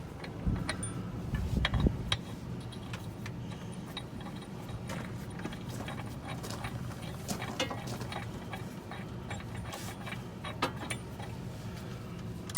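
Hand socket ratchet clicking irregularly as bolts are run in on a tractor's rear wheel hub, with a few heavier knocks in the first two seconds.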